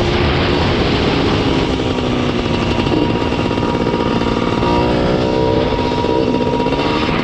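1979 Yamaha IT 250's two-stroke single-cylinder engine running under way, its pitch rising and falling with the throttle and climbing briefly about two-thirds of the way through. Heavy wind noise on the microphone.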